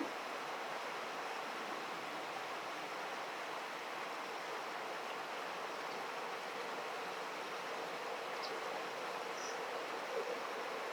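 Steady rush of flowing river water, with a couple of faint short high chirps near the end.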